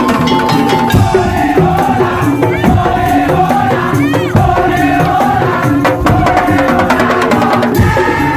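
A Madurese tong-tong (ul-daul) ensemble playing loudly: wooden slit drums and drums beat a dense, driving rhythm under a held melody line.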